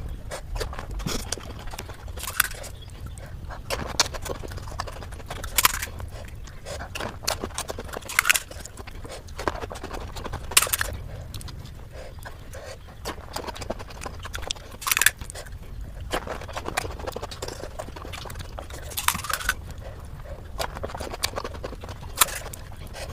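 Close-miked eating of golgappa (pani puri), sped up six times: crisp puri shells cracking and being chewed as a fast stream of crunching clicks, with louder crunches every two to three seconds.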